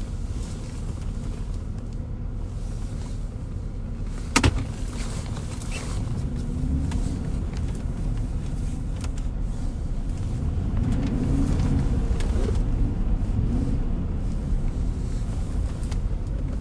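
Car cabin sound while driving: steady engine and road rumble, with one sharp click about four seconds in, then the engine note rising and falling a few times as the car picks up speed.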